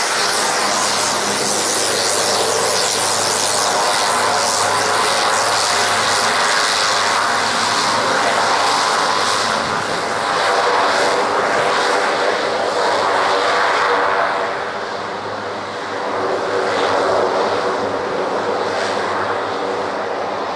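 Shorts Tucano T1 turboprop trainer running on the ground: the Garrett TPE331 turboprop and propeller make a steady whine and buzz over a broad rush. It dips briefly about three-quarters of the way through, then rises again.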